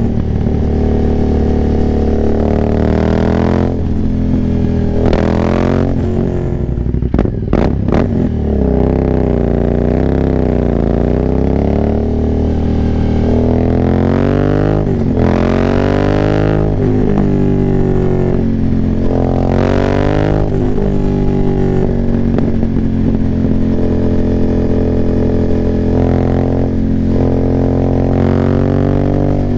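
Aprilia Dorsoduro 900's 90° V-twin, de-catted with a full Arrow exhaust and no dB killers, being ridden hard: the engine note climbs and drops again and again through the gears. A few sharp cracks come about seven to eight seconds in.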